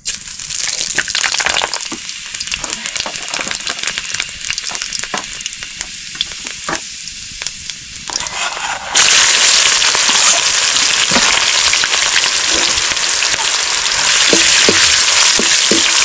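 Food frying in hot oil in a pan, sizzling and crackling as it is stirred. About nine seconds in the sizzle suddenly gets much louder and denser and stays that way.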